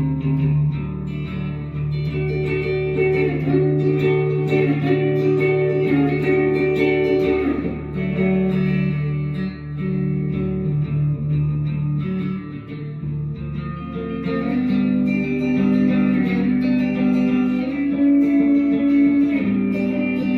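Guitar music: plucked guitar notes over a steady bass line.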